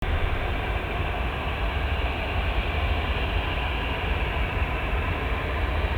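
Steady low rumble with a hiss over it, even throughout, with no clear tone or rhythm.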